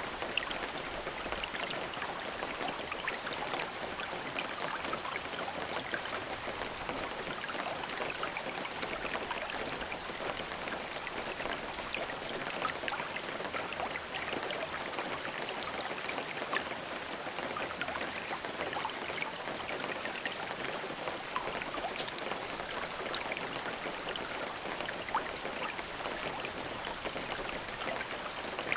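Steady rain falling, a constant hiss with many individual drops pattering on surfaces and no thunder.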